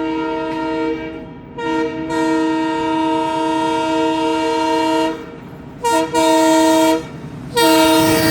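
WDM3D diesel locomotive's multi-tone air horn sounding a series of blasts: a long blast breaking off about a second in, a short one, a long one of about three seconds, two short ones, and another long one starting near the end. The rumble of the approaching train swells up under the last blast.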